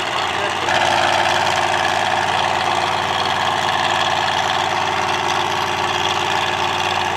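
Monster truck engine running steadily, with a stack of even engine tones. It gets louder just under a second in and then holds steady.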